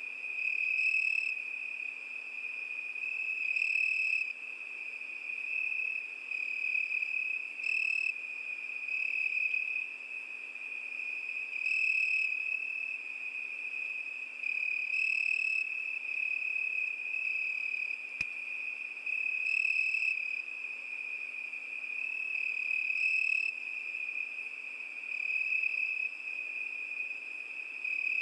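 Crickets singing in a continuous high-pitched trill that swells louder every few seconds.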